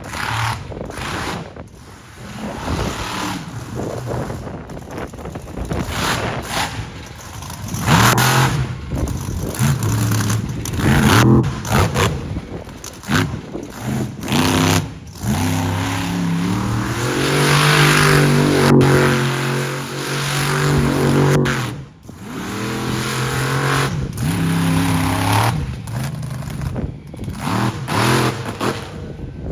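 Monster truck engine revving hard in repeated bursts that rise and fall, with one long held high-rev stretch past the middle and a brief drop off the throttle soon after. A few sharp knocks are scattered among the revs.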